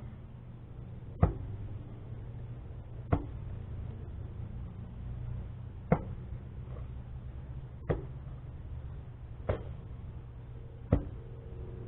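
Shovel digging into soil: six sharp strikes, one every two seconds or so, over a steady low hum.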